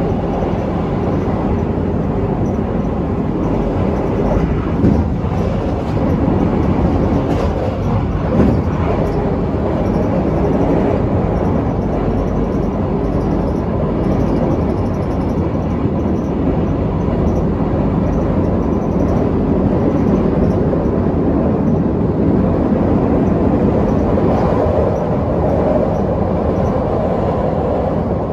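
KTM Class 83 (Hyundai Precision) electric multiple unit running on the line, heard from inside the carriage: a steady rumble of wheels and running gear, with two brief louder knocks about five and eight seconds in.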